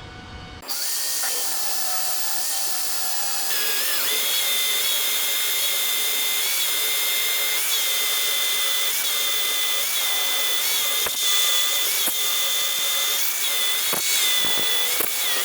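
Magnetic drill running a small drill bit into steel, starting about half a second in: a steady motor whine that climbs in pitch a few seconds in, then sags briefly again and again as the bit bites, with a few sharp clicks near the end.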